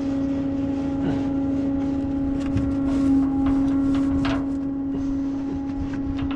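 A running truck gives a steady, even hum. Over it come a few short metallic knocks and clanks of tools at the wheel, the sharpest about four seconds in.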